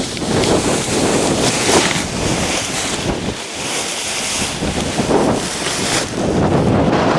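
Strong gusting wind buffeting the microphone, a loud steady roar of wind noise that swells and eases with the gusts.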